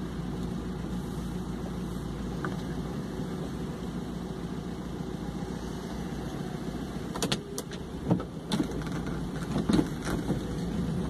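Vehicle engine idling steadily, heard from inside the cabin in stop-and-go traffic, with a few sharp clicks and knocks about seven to ten seconds in.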